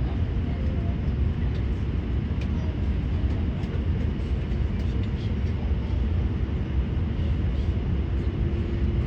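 Steady low rumble of the cabin of a JAL Airbus A350 taxiing after landing, with a few faint clicks and rattles from the cabin.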